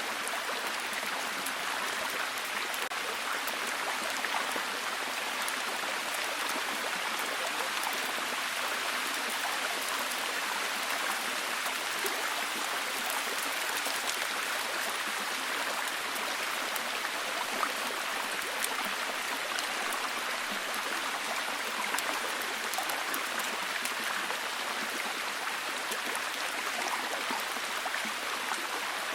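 Steady heavy rain: an even hiss with many small drop ticks scattered through it, unchanging throughout.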